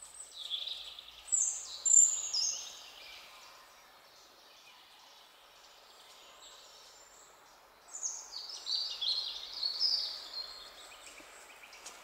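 A songbird singing in the trees: two phrases of about three seconds each, made of quick high notes stepping down in pitch, with a pause between them, over a faint steady hiss.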